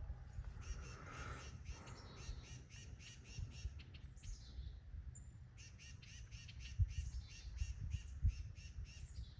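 Songbirds giving rapid, harsh repeated alarm calls, about four notes a second, in two runs with a short break around the middle: parent birds mobbing a black snake climbing toward their nest. A low rumble runs underneath.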